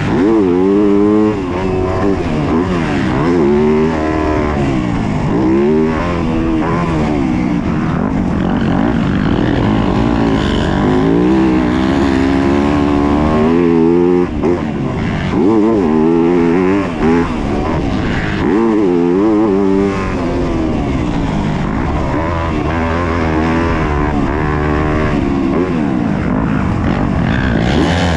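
A Yamaha YZ250F's 250cc four-stroke single-cylinder engine revving up and falling back over and over, its pitch rising and dropping every second or two as it is ridden hard around a motocross track.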